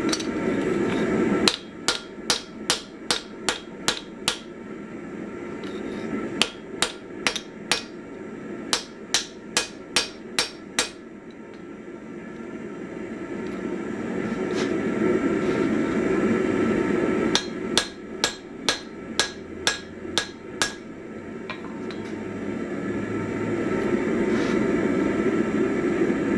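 Hand hammer striking hot 1045 steel on an anvil while an axe head is forged: three runs of ringing blows, about two to three a second. Between the runs a steady forge roar rises in loudness.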